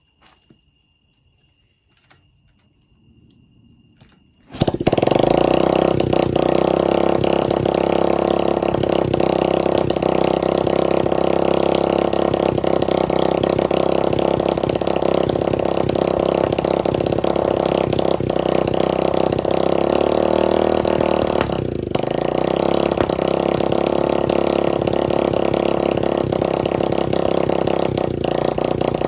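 Dirt bike engine firing up suddenly about four and a half seconds in and running loudly with no exhaust pipe fitted, with a brief dip about 22 seconds in.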